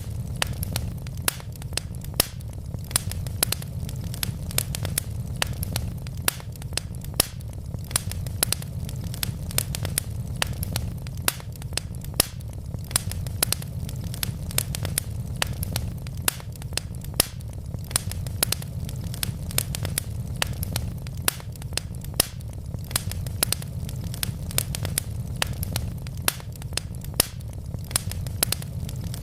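Wood logs burning in a fireplace, crackling with many small sharp pops a second over a steady low rumble of the flames.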